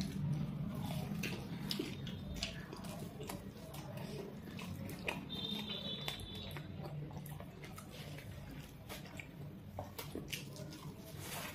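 Close-up chewing and wet mouth sounds of people eating puri with shahi paneer curry: many small smacks and clicks, over a steady low hum.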